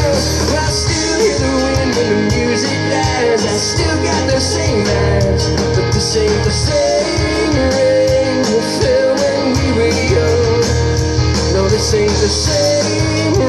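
Rock band playing live: electric guitars, bass and drums with a steady cymbal beat, a melodic line wavering above the chords.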